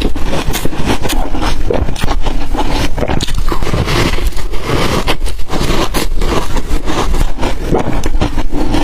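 Ice being bitten and crunched in the mouth close to the microphone: a dense, loud run of crackling, scraping crunches.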